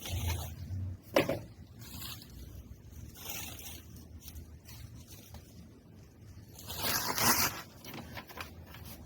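Parts being handled and unpacked: irregular rustling and scraping, with a sharp click about a second in and a louder rustle of packaging around seven seconds in.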